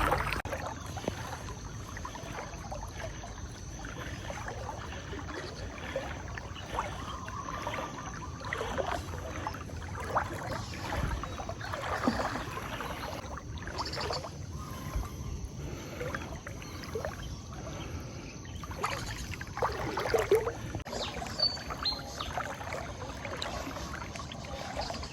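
Floodwater sloshing and splashing around a person's legs as he wades slowly through deep water, with irregular swishing strokes.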